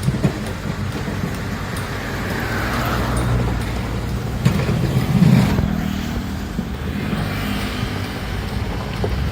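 Heavy excavator's diesel engine running steadily under load, with a whine that falls in pitch a couple of seconds in and a few sharp metallic knocks near the middle.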